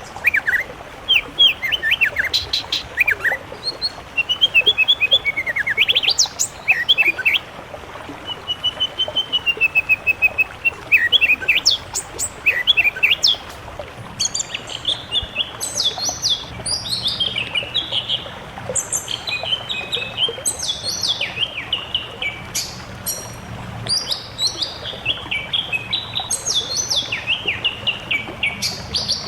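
Mixed songbird song from a combination masteran training recording. It opens with varied whistles, warbles and a wavering whistled phrase. About halfway through it gives way to a fast, busy run of sharp, high repeated chirps.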